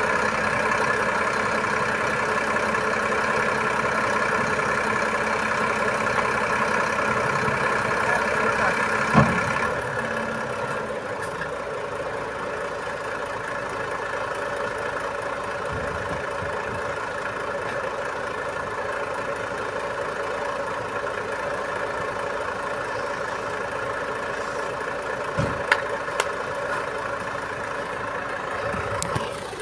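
Iveco boom truck's diesel engine running steadily. A sharp knock comes about nine seconds in, and the engine then settles to a lower, quieter run. A few short clicks come near the end.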